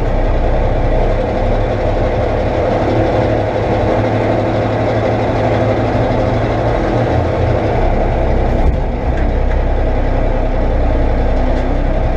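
Heavy diesel engine running steadily, its low note easing off a little for a few seconds midway and then coming back.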